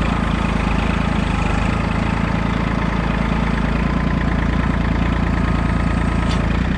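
Tractor engine running steadily, used for clearing paths through deep snow.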